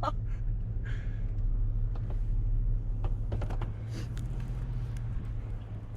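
Plow truck's engine idling with a steady low hum, heard from inside the cab, with a few faint clicks and handling noises.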